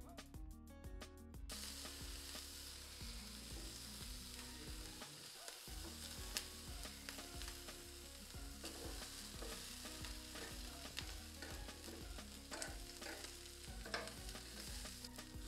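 Pizza toppings (bacon and other meats) frying in oil in a pan, sizzling steadily, with scattered clicks and scrapes of a utensil stirring them.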